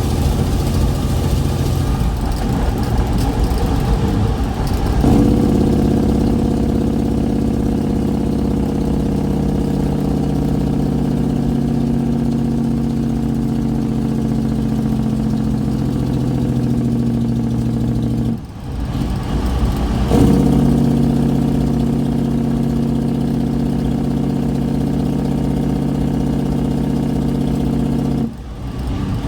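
Kenworth truck's straight-piped diesel engine running. After about five seconds it steps up to a loud, deep, steady exhaust note under load. That note cuts off sharply twice, near the middle and near the end, and comes back after a second or two the first time.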